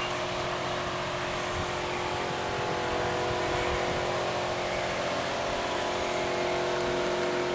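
Steady mechanical hum: several held tones over an even hiss, unchanging in level and pitch.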